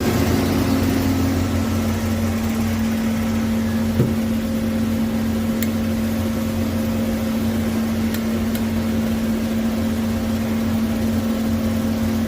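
CNC lathe running with a steady motor hum, one light knock about four seconds in and a few faint high ticks later.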